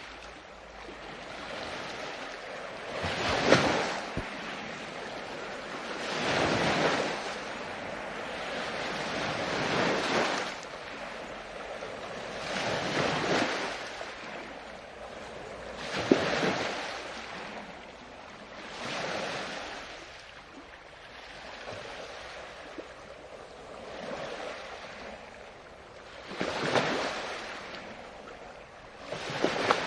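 Ocean surf: waves break and wash in one after another, a rushing swell about every three seconds, a few of them ending in a sharper crash.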